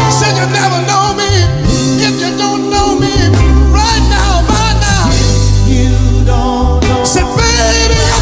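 Live band playing soul music, with a steady bass line, drums and a wavering lead melody line.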